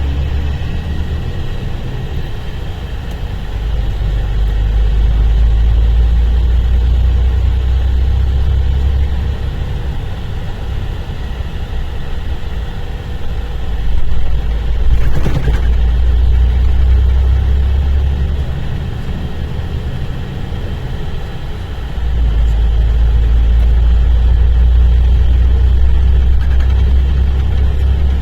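Mercedes-Benz O-500RSD coach's diesel engine running with a deep, steady rumble. It grows louder about four seconds in, again around fourteen seconds and again at about twenty-two seconds, easing off in between.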